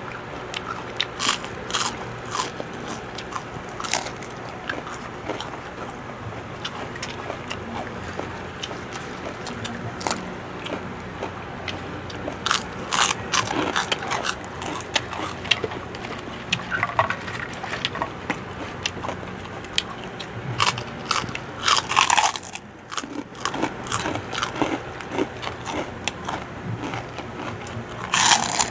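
Crispy pork chicharon (fried pork rinds) being bitten and chewed, with sharp crunches coming in irregular clusters.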